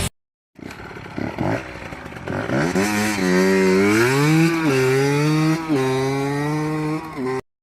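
Small Derbi engine on a minibike running, first at a low, uneven idle, then revved up about two seconds in and blipped up and down several times before cutting off suddenly.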